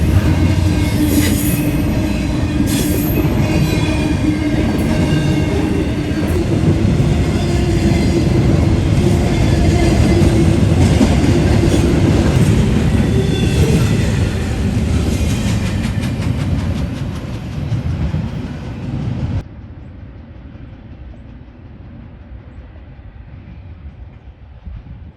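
Freight train rolling past close by: a loud, steady rumble of wheels on rail with clattering and some wheel squeal. About three-quarters of the way through it cuts off suddenly, leaving a much quieter outdoor background.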